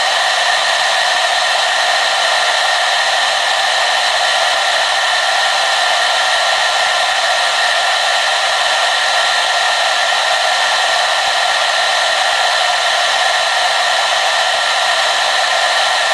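Hair dryer blowing steadily, a constant hiss with a faint steady whine in it and no change.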